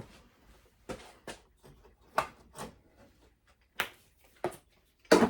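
Irregular sharp knocks and clunks of hard objects being handled and set down, about seven over five seconds, the last one the loudest.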